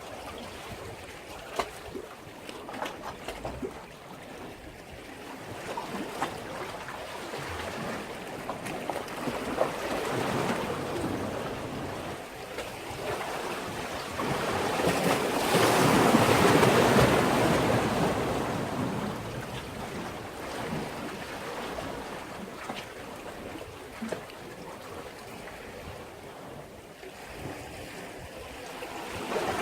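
Sea waves washing against a breakwater. The rush swells to one loud surge about halfway through and then subsides, with small scattered splashes or ticks in the first few seconds.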